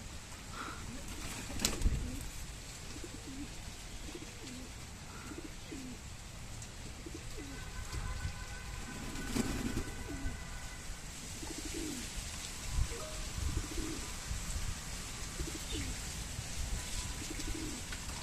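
Domestic tumbler pigeons cooing, a string of short low coos repeating one after another, with a single sharp knock about two seconds in.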